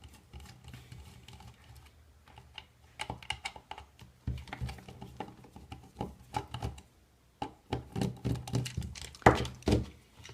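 Irregular small clicks and taps of plastic and metal parts being handled as a hair dryer is taken apart to get its motor out, sparse at first and coming in clusters later, with the loudest knocks near the end.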